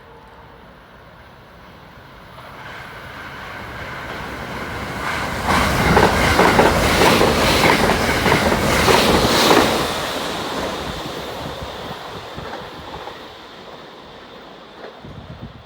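A train passing by, building up, loudest in the middle with the clatter of its wheels over the rail joints, then fading away.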